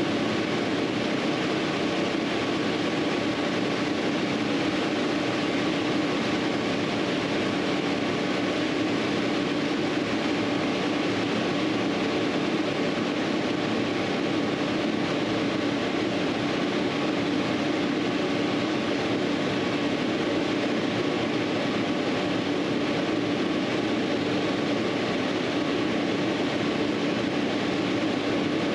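A steady, unchanging mechanical hum mixed with a hiss, holding a few constant tones, with no knocks or pauses.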